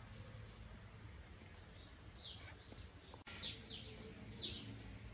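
Small birds chirping: a handful of short, quick chirps that sweep downward, clustered in the second half, over a faint steady low hum.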